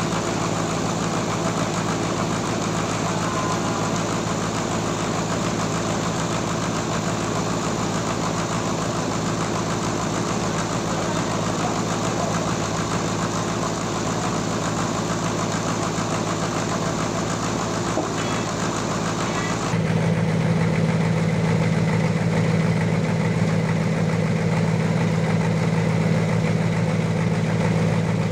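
Sawmill engine running steadily while the saw cuts through a trembesi log, with a dense hiss of sawing over the engine hum. About 20 s in the sawing hiss cuts off abruptly and the engine's low hum becomes louder.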